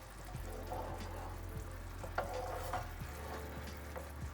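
Chicken adobo sauce simmering and sizzling in a pan as it is stirred, with a few light clicks of the stirring utensil against the pan.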